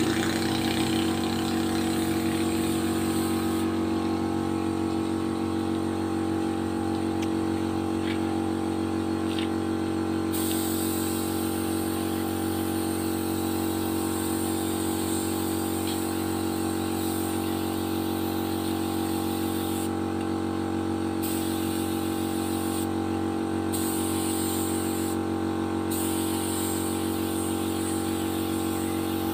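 A machine runs steadily, most likely the air compressor feeding the paint spray gun. From about ten seconds in, the spray gun hisses on and off in several bursts of a few seconds each.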